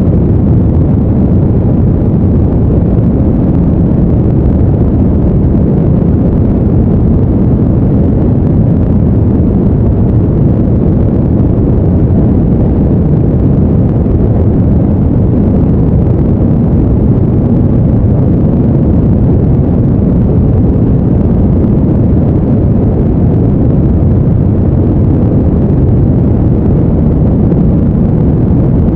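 Steady deep rushing noise, even and unchanging, with its weight in the low end: a brown-noise style sleep sound.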